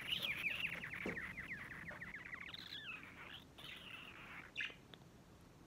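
Budgerigar chattering: a fast run of short, high chirps for about three and a half seconds, then a few separate calls before it falls quiet.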